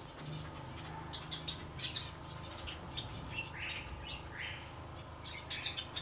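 Small cage birds, such as finches, chirping: many short, high chirps scattered throughout, over a faint steady low hum.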